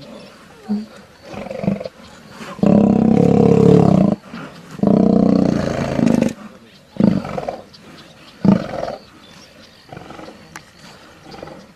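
Male lions growling in a fight: two long, loud growls a few seconds in, with shorter grunts before and after.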